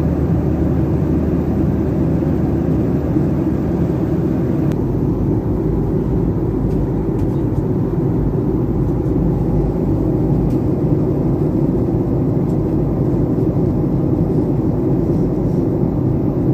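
Steady cabin noise inside a Boeing 737-800: the deep rumble of the engines and the airflow. The sound shifts about five seconds in, with the lowest rumble getting stronger and the higher hiss dropping, and there are a few faint ticks after that.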